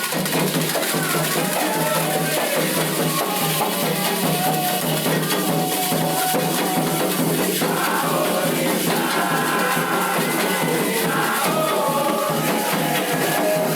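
Candomblé ritual music: sung chanting over a dense, steady beat of rattles and drums.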